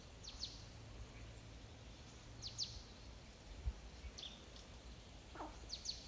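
Faint bird calls: short, high notes sweeping steeply downward, mostly in pairs, repeating every couple of seconds, with one lower falling note near the end.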